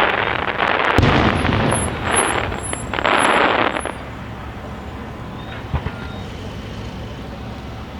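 Fireworks display: a shell bursts with a sharp bang about a second in, followed by dense crackling hiss that swells twice. After about four seconds it dies down to a quieter lull with a single small pop.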